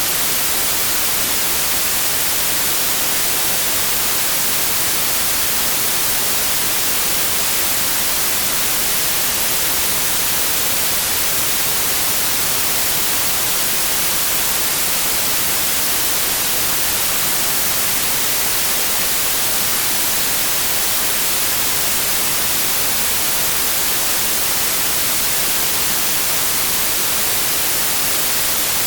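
Synthetic white noise: a steady, unchanging hiss, bright and loudest in the treble, with no rhythm or events.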